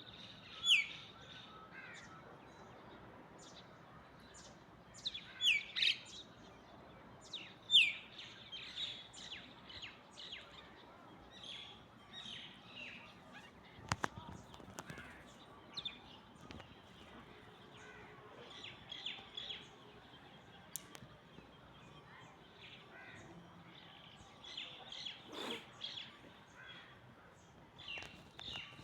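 A myna and other birds calling together, many short chirps overlapping throughout, with loud whistled calls sweeping sharply downward in pitch about a second in and again around five and a half and eight seconds.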